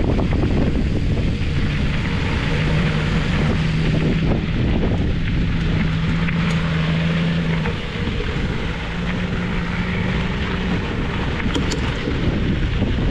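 Wind buffeting the microphone, with a steady low drone from an engine that runs for several seconds, stops briefly and comes back.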